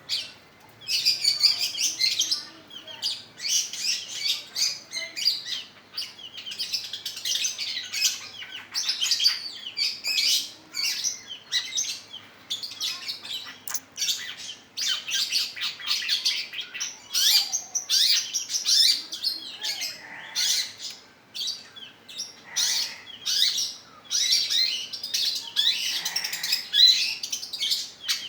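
Long-tailed shrike (pentet) in full song: a fast, high chatter of rapid notes that runs on with only brief pauses.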